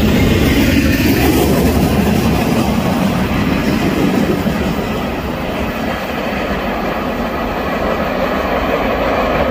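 Freight train cars rolling past close by: steady noise of steel wheels on the rails, dipping a little midway and building again.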